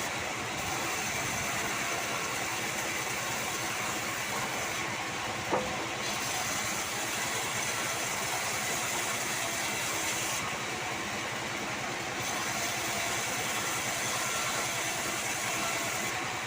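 Band sawmill running steadily while sawing sengon wood, with a fine rapid rhythm under a hiss whose highest part drops away briefly a few times. One sharp click about five and a half seconds in.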